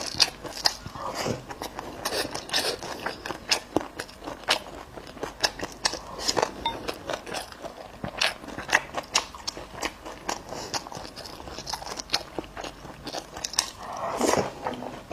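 Close-up sound of a person biting and chewing braised goat ribs: irregular wet smacks and crunchy clicks, several a second, with a longer, louder mouthful sound near the end.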